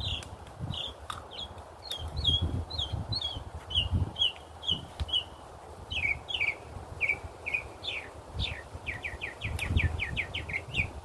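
A small songbird singing: a run of short high chirps, about two a second, quickening into a fast trill near the end, over a low, uneven rumble.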